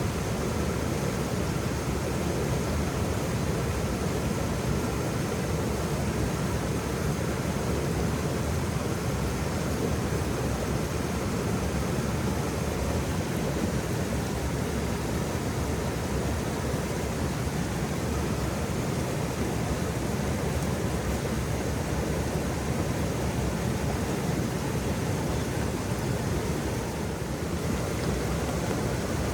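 Waterfall: a steady, unbroken rush of falling water, even throughout with a slight dip near the end.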